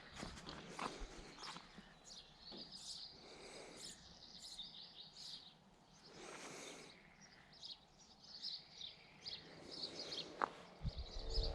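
Faint outdoor birdsong: small birds chirping and trilling in short high bursts, with scattered light clicks. A low rumble comes in near the end.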